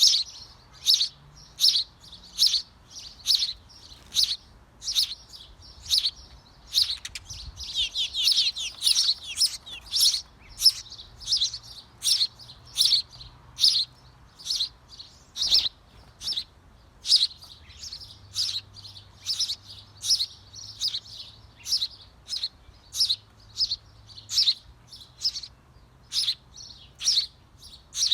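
Small birds in a birdhouse chirping over and over, short high calls about twice a second, with a flurry of overlapping chirps around eight to ten seconds in.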